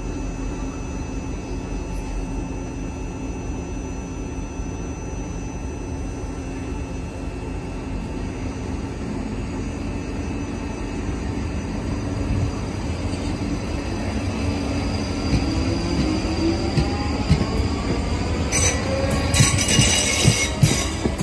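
A steady electric train hum with a few faint whines, then a South Western Railway electric multiple-unit train approaching and running past close by, getting louder over the last several seconds. Its wheels clack rhythmically over rail joints and points, with high squeals as the nearest coaches go by.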